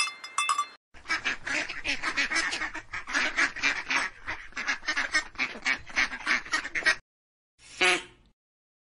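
Ducks quacking: many quacks in quick succession that stop about seven seconds in, then one more call near the end.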